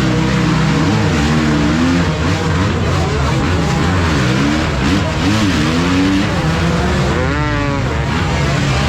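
Several motocross bike engines revving, their pitch rising and falling as they overlap; one bike revs sharply up and back down about seven seconds in.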